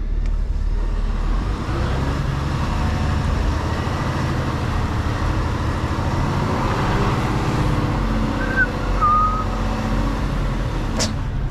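Mercedes Actros truck's diesel engine running under load, its pitch rising and falling as the truck is manoeuvred. Two brief high squeaks come about eight and nine seconds in.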